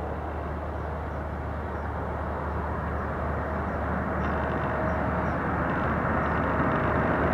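Jet aircraft engines approaching, growing steadily louder.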